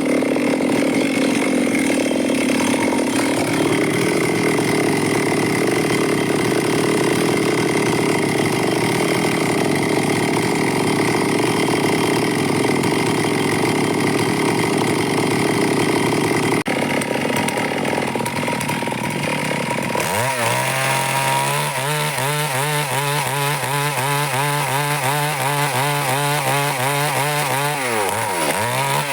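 Stihl two-stroke chainsaw cutting through wood under load. About two-thirds of the way in the sound changes suddenly, and the engine then runs with a clear, wavering pitch as the throttle rises and falls.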